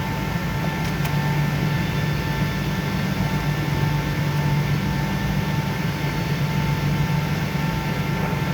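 Airliner engines heard from inside the passenger cabin during takeoff. A steady low drone carries a few thin, steady whining tones above it.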